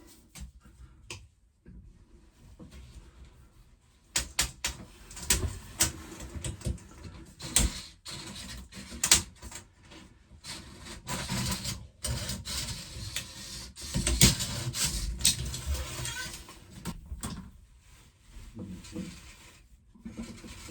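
Irregular knocks, clicks and scraping from hand work in a cramped space, getting busy about four seconds in.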